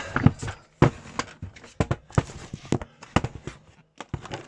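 Irregular plastic clicks and knocks from a Shark cordless stick vacuum being handled and taken apart to get at its filter. There are about a dozen sharp knocks with no motor running.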